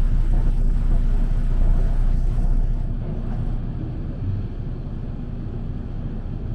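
Running noise of a 205 series electric commuter train: a steady low rumble that eases off a little about three seconds in.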